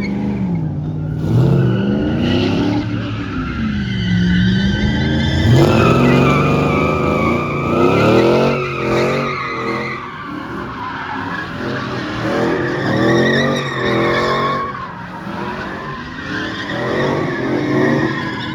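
A truck doing a burnout: its engine revs up and down again and again, with quick blips near the middle, while the tires squeal throughout.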